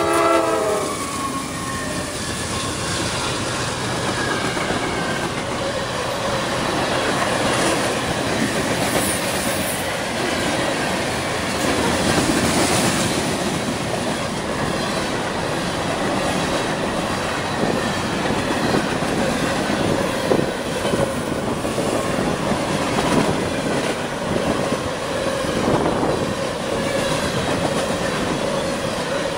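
Long CSX freight train passing close at speed: a steady rumble and clatter of freight-car wheels over the rail joints. The locomotive horn cuts off in the first second, and a thin wheel squeal comes in near the end.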